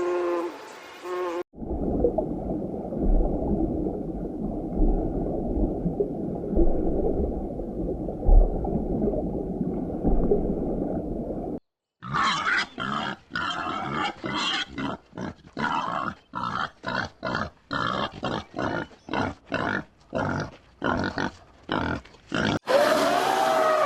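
A string of separate animal recordings. A long, low, rough growling rumble lasts about ten seconds. Then come short calls repeated one or two times a second, and a different pitched call near the end.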